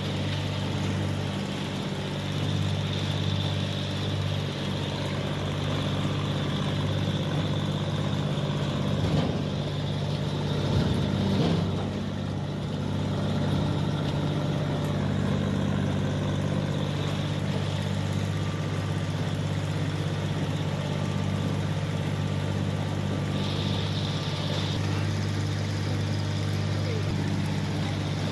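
SP-14 self-propelled sweet corn harvester's engine running at a steady speed, with a couple of louder knocks near the middle and a brief higher hiss near the end.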